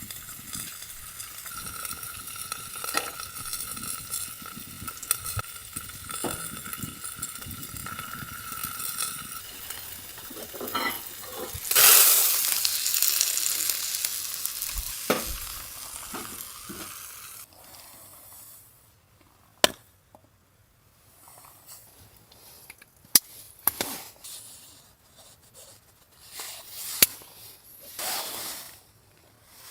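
Food frying and sizzling in a hot pan, with small clinks of stirring. About twelve seconds in, the sizzling surges suddenly and loudly, then fades over several seconds. After that a few sharp clicks and knocks sound over a quieter background.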